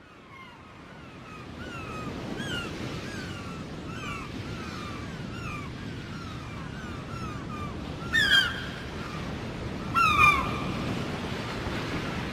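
Seagulls calling over the steady wash of surf, fading in at the start. Short gliding calls repeat about twice a second, with two louder calls about eight and ten seconds in.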